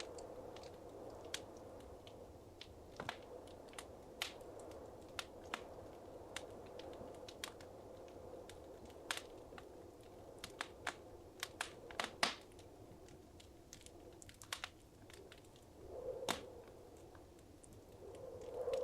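Wood fire crackling in a fireplace: irregular sharp pops and snaps over a low steady hiss of burning, with a brief cluster of louder pops around twelve seconds in.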